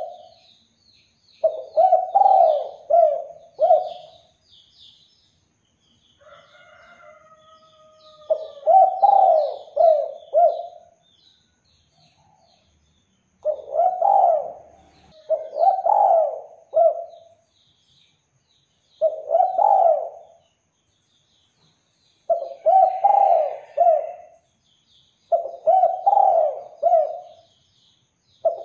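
Spotted dove (derkuku) cooing: about eight phrases of several low coos each, a second or two long, coming every few seconds. Faint high chirping of small birds sounds between the phrases.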